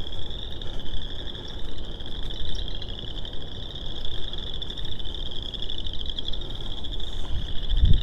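A dense chorus of frogs calling from a marsh, heard as an unbroken high-pitched trill that holds steady throughout. A low rumble comes in near the end.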